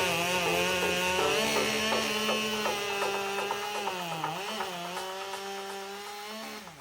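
Chainsaw engine running at high revs, its pitch steady with a brief dip about four seconds in, then cutting off near the end.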